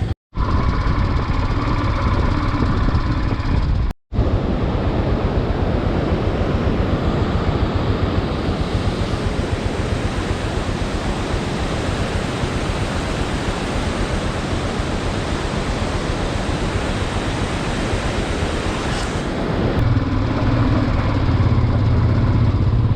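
Motorcycle engine running under a steady rush of noise, heard in edited clips with two short silent breaks in the first four seconds; from about four seconds in the rushing noise dominates, and the engine note stands out again near the end.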